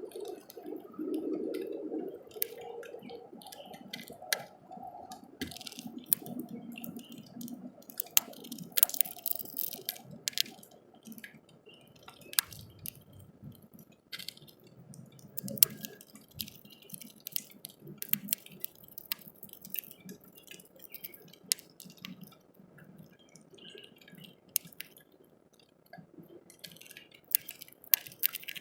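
Small bird pecking seed at a feeder: irregular sharp clicks and taps of its beak on seed and feeder, over a low rumbling background.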